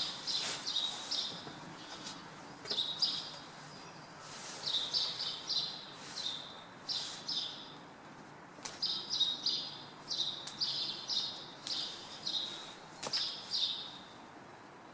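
Small birds perched in a tree chirping: short, high chirps in quick clusters of two to four, repeated over and over, falling quiet near the end.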